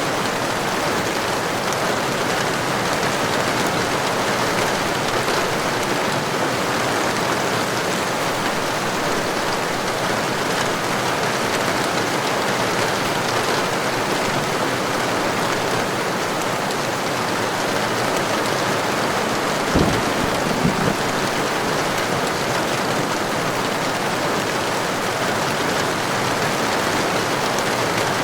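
Heavy rain falling steadily, a dense, even hiss of drops. About twenty seconds in there is one brief sharp crack, followed by two smaller knocks.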